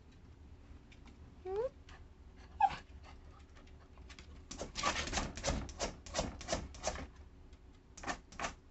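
Jack Russell terrier giving two short rising whimpers, followed about halfway through by a run of rapid scratchy noises.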